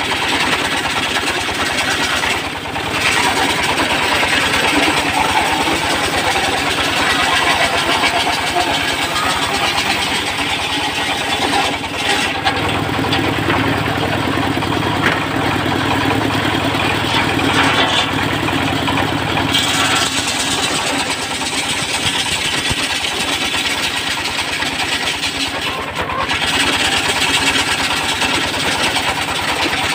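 Dongfeng diesel engine running steadily, driving a circular sawmill rig, with a few brief dips in level.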